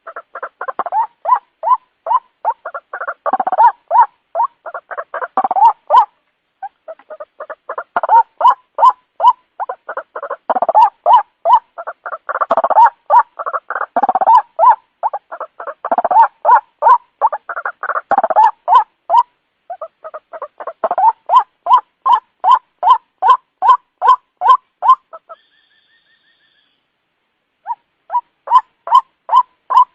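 White-breasted waterhen lure call: a fast string of repeated croaking "ruak" notes, about three a second, in runs with brief breaks and one longer pause near the end.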